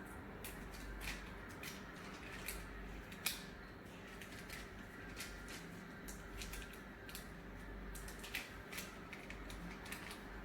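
A sheet of paper being folded and creased by hand: irregular crinkles and short sharp ticks, with one louder snap about three seconds in.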